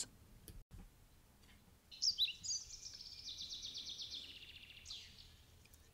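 A small songbird singing: a few quick high chirps about two seconds in, then a fast, even trill lasting about three seconds, with a last chirp near the end.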